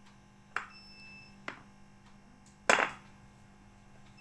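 A few sharp taps and clicks with one louder knock a little over halfway through; the first tap is followed by a brief high ring. A steady low hum runs underneath.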